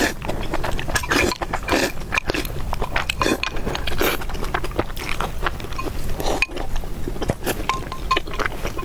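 Close-miked eating of noodle soup: continuous wet chewing and biting sounds, many short irregular mouth noises.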